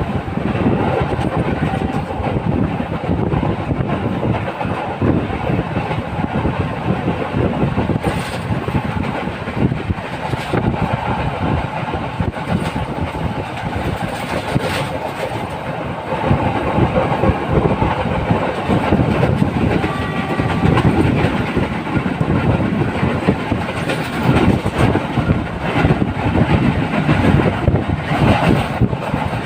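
Train running on the rails: a steady rumble with the clickety-clack of wheels over rail joints and an occasional knock.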